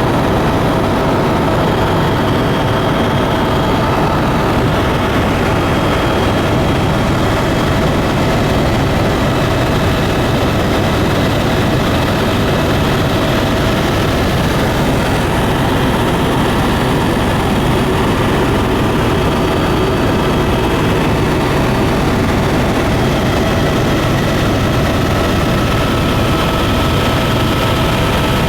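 Steady engine and propeller drone inside a small tour plane's cabin in cruise, with a constant hum under the noise.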